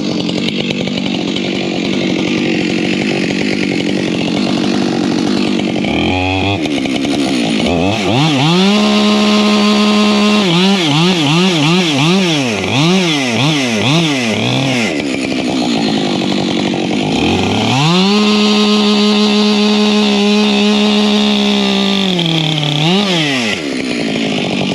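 Husqvarna chainsaw cutting firewood. The engine revs up about seven seconds in and its pitch swings up and down repeatedly for several seconds. It then holds steady at high revs and drops near the end.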